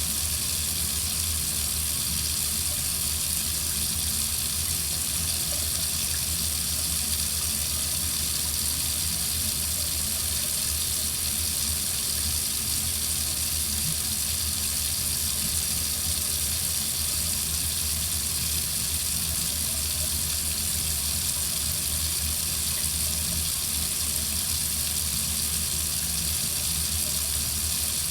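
Water faucet running in a steady stream: an even hiss, strongest at the top of the range, with a low hum underneath that stays unchanged throughout.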